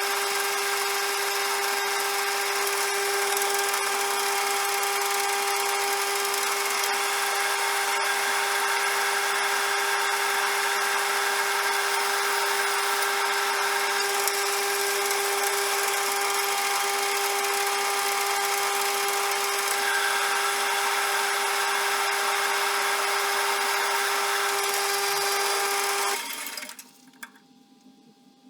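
CJM360 metal lathe running, a steady whine over a hiss from its motor and spindle drive. It stops abruptly near the end, leaving a few faint clicks.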